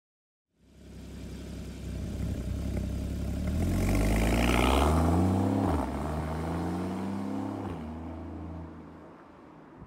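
Porsche 981 Cayman's flat-six engine through a SOUL Performance valved exhaust, accelerating hard: the note climbs, drops sharply at an upshift about halfway through, climbs again and drops at a second shift, then fades away.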